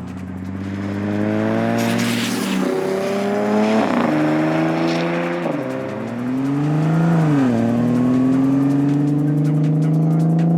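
Audi S4's supercharged 3.0 TFSI V6 through a Scorpion Predator exhaust with the rear silencers deleted, accelerating hard: the pitch climbs and drops back several times as it shifts gear, then holds steady at a higher pitch.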